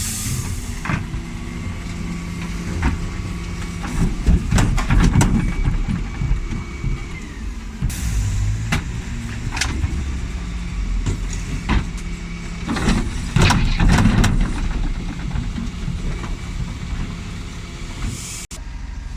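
Dennis Elite 6 bin lorry's diesel engine running steadily, with bursts of knocking and clattering about a quarter of the way in and again about two-thirds in. Short hisses of air come near the start, in the middle and near the end.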